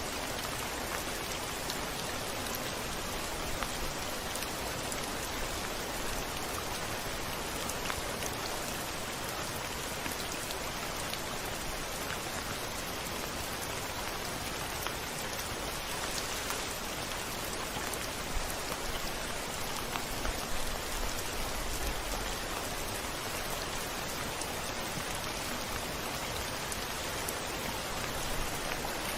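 Steady, dense rain with individual drops ticking on a hard surface, such as a windowpane, and a faint low rumble about twenty seconds in.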